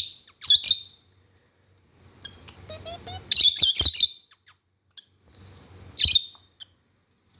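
Lovebirds screeching at each other in short bursts of rapid high chirps, three times: hormonal females squabbling.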